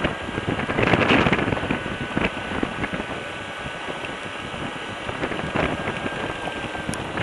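Lifan KPT200 motorcycle running, heard under heavy, gusting wind noise on the microphone.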